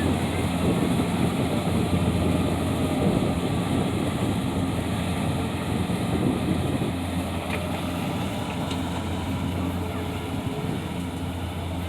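Small engine running steadily at an even speed, a low constant hum.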